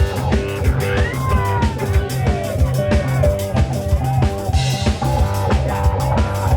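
Live band playing an instrumental passage: a drum kit keeping a steady beat over a strong bass line and guitar, with a sliding note about a second in.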